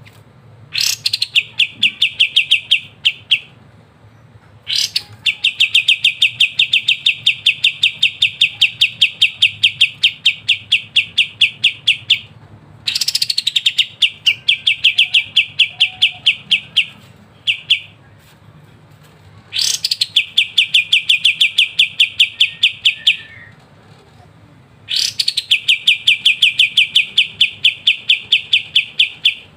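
A kapas tembak songbird singing in its rapid rattling 'ngebren' style. It gives five bursts, each opening with a quick falling note and running on as a fast, even string of sharp repeated notes, with short pauses between bursts.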